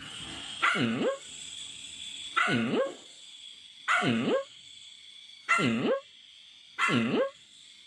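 A pet animal calls five times, one about every second and a half, each call dipping and then rising in pitch, over a faint steady high whine.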